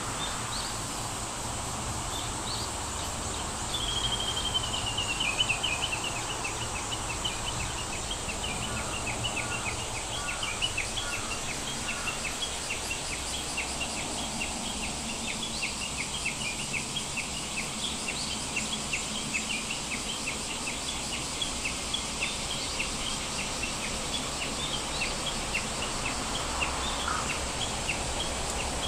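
Birds calling over a steady high hiss and low rumble: a descending trill about four seconds in, then a long run of short, quickly repeated chirps.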